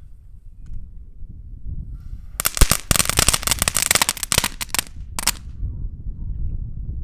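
Crackling-ball firework going off in a rapid, dense string of sharp crackles for about two and a half seconds, then a short second burst, with wind rumbling on the microphone.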